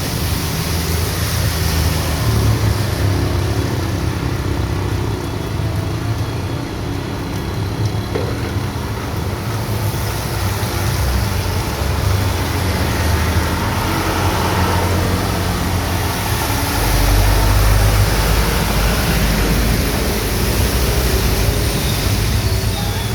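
Heavy rain falling steadily on a street, mixed with road traffic. A low vehicle rumble swells about three-quarters of the way through.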